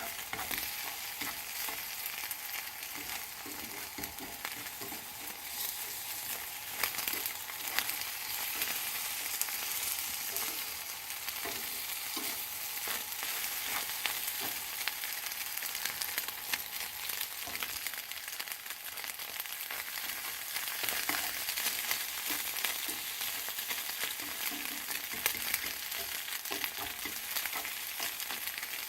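Leftover liver and garlic-chive stir-fry sizzling in a frying pan as it is reheated and stirred, a steady hiss with scattered clicks and scrapes of the utensil against the pan.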